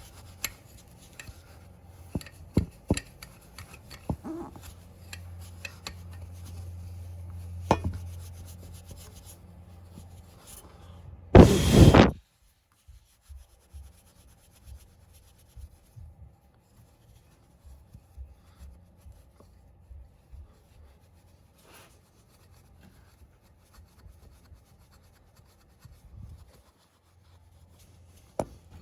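An abrasive pad scrubbing rust off a chrome-plated motorcycle wheel rim and its spokes, in short irregular rubbing and scraping strokes. A loud rushing burst, under a second long, comes about eleven seconds in. After it the scrubbing goes on more quietly and sparsely.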